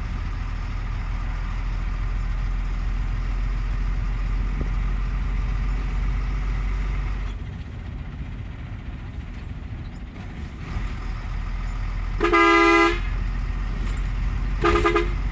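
Truck engine running in seventh gear, a steady low drone that drops off about seven seconds in. Near the end a vehicle horn sounds twice: a loud blast of under a second, then a shorter one.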